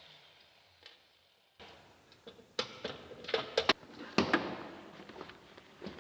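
A run of irregular sharp clicks and knocks, as of tools and parts being handled on a workbench. They start about two seconds in, after a near-quiet spell, and a few of them are loud.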